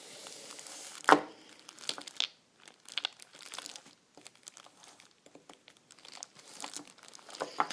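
Crinkly plastic being handled and crumpled close to the microphone: an irregular run of crackles and clicks, with one sharp louder snap about a second in.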